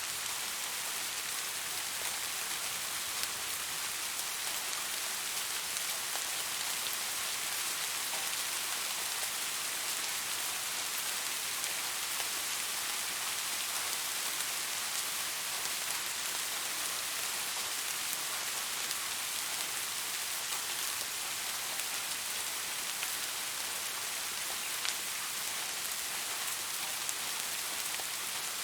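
Steady rain falling, a continuous even hiss with the faint patter of individual drops.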